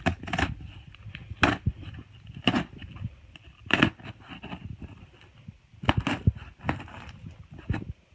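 A cardboard shipping box being opened and its packing material handled: irregular sharp crackles and scrapes, a few seconds apart.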